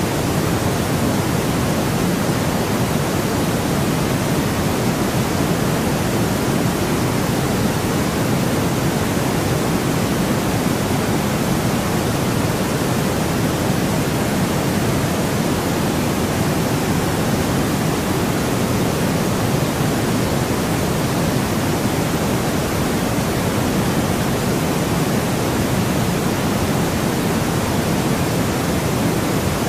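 Steady synthetic noise, an even hiss without change or events, weighted a little toward the low end.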